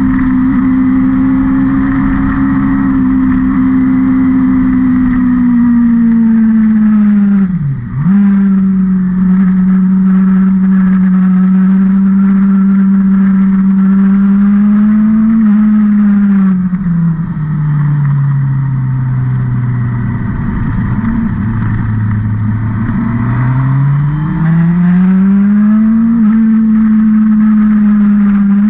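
Vehicle engine running hard around a race circuit, revs held high. The revs dip sharply and recover about eight seconds in. Past the middle they fall low for several seconds, as if slowing for a corner, then climb back up under acceleration near the end.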